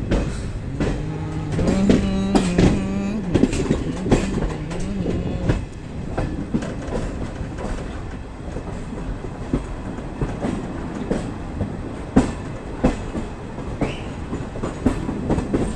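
Train passing close by. A low droning tone that steps in pitch in the first few seconds, then a rumble with repeated sharp clacks of the wheels over rail joints.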